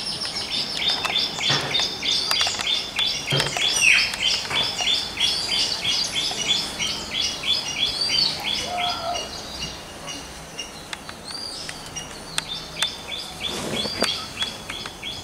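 Birds calling: one bird repeats a short, high chirp about four times a second, breaks off about nine seconds in and starts again near the end, with other scattered chirps over it.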